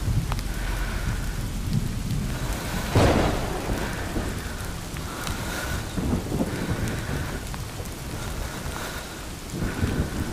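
Rain falling on foliage and on the camera's microphone, with regular footsteps on a wet woodland trail and a louder knock about three seconds in.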